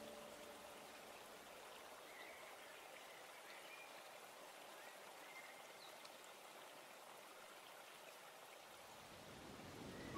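Near silence: a faint steady hiss between two pieces of background music. The last notes of one piece die away just after the start, and the next piece fades in at the very end.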